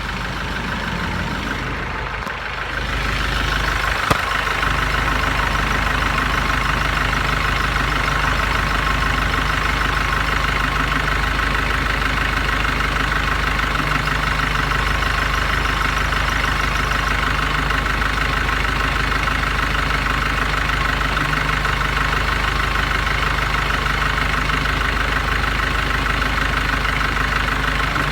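VW LT35 van's 2.8-litre diesel engine idling steadily, its sound growing louder about three seconds in, with a single sharp click about four seconds in.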